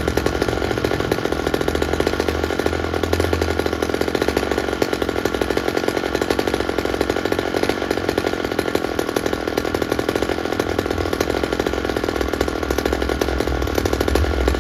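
McCulloch Mini Mac 35, a small two-stroke chainsaw of just under 33 cc, running at a steady high speed.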